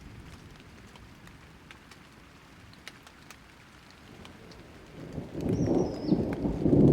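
Thunder rolling in over light rain. Scattered drips tick over a soft hiss, then a deep rumble builds from about five seconds in and is loud by the end. A short bird chirp sounds over the start of the rumble.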